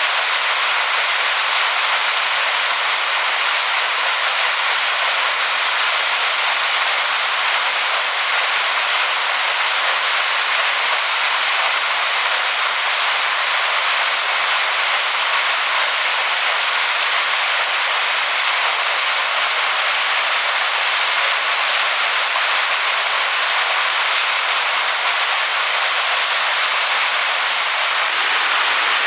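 Waterfall pouring over rocks: a steady, even rush of water, bright and hissy with little low rumble.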